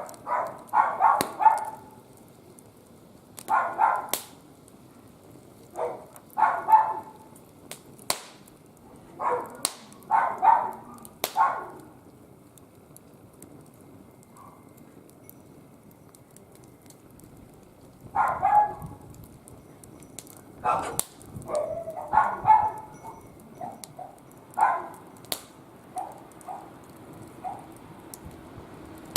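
Dog barking in clusters of short barks, over a wood fire crackling with sharp pops.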